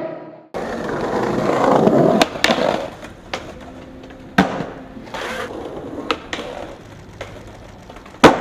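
Skateboard wheels rolling, then a series of sharp clacks of the board hitting the ground, the loudest one near the end.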